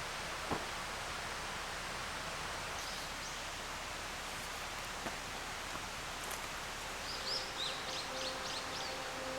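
Steady hiss of rain falling in woodland, with a couple of faint taps, and a bird giving a string of quick, high chirps near the end.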